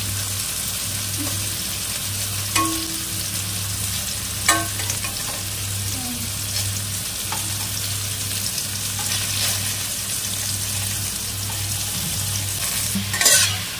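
Marinated paneer cubes sizzling as they are lightly roasted in hot oil in a kadhai, with a steady low hum underneath. A steel spatula scrapes and taps the pan now and then, with a few louder clatters near the end.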